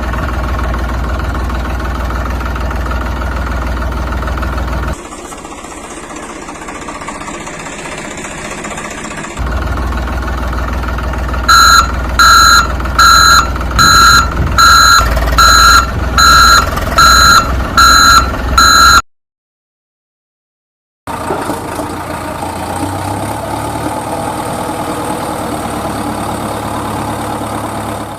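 Vehicle engine running steadily, with a loud reversing alarm beeping about a dozen times at an even pace, roughly one and a half beeps a second, partway through. The sound cuts out completely for about two seconds, then engine noise resumes.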